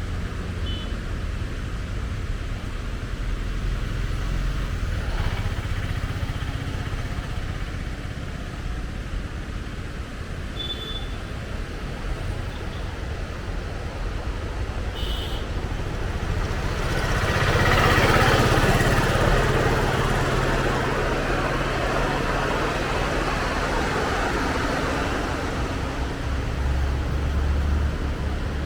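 Car on the road: a steady low rumble of engine and road noise, with a louder rush of noise swelling up and fading over several seconds about two-thirds of the way through.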